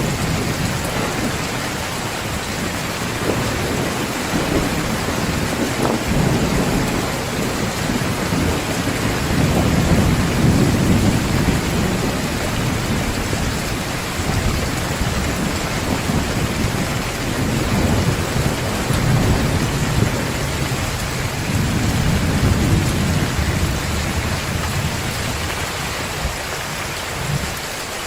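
Heavy rain pouring steadily, with low rolls of thunder swelling and fading several times.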